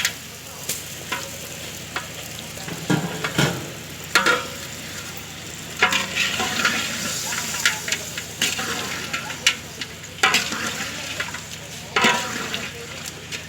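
Chicken roast frying and sizzling in a pan, with a spatula stirring and scraping the pan every second or two.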